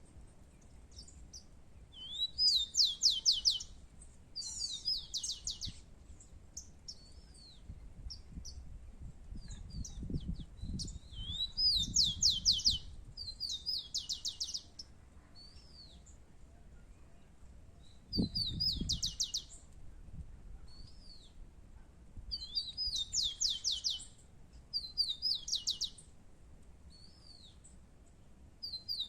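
Rufous-collared sparrow (tico-tico) singing: a short song of a few clear, slurred whistles ending in a fast trill, repeated about every few seconds.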